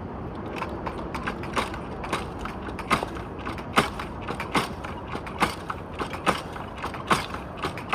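Irregular creaking and sharp clicking from some mechanism or handled object, a few clicks a second at uneven spacing, over a steady background noise.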